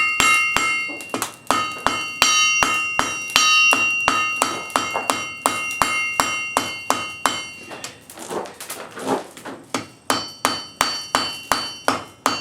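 Blacksmith's hammer striking hot wrought iron on an anvil, steady blows about two to three a second, each with a bright ringing note. Around eight seconds in the ringing drops away for a couple of seconds of duller blows, then the ringing strikes resume.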